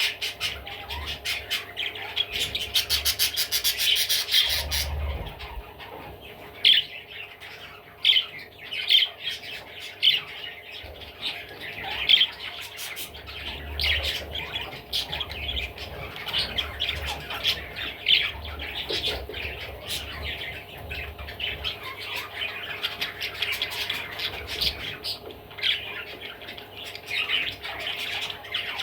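Budgerigar chattering: a fast run of sharp, evenly repeated notes for the first few seconds, then separate short chirps and squawks.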